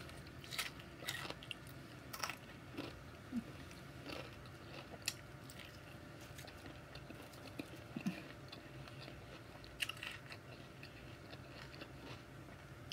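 A person chewing a mouthful of salad with lettuce, corn and tortilla strips, mouth closed: soft, close eating sounds with scattered small crunches and clicks.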